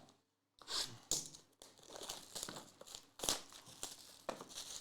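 Trading card pack wrapper being torn open and crinkled by hand, in a run of irregular rustling bursts.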